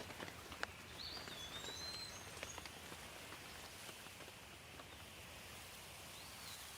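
Steady light rain with individual drops striking close by. A bird gives short whistled calls that slide up and down, about a second in and again near the end.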